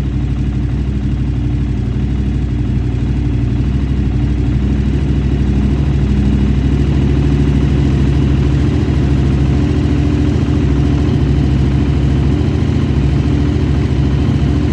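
KTM 990 SMT's V-twin engine idling steadily, with an even, unchanging pitch.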